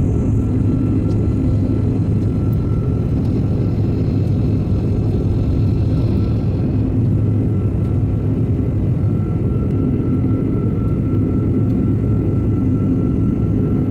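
Cabin noise aboard an Airbus A330 jetliner in flight: the steady drone of the jet engines and rushing air, with a low hum and a faint thin whine held throughout.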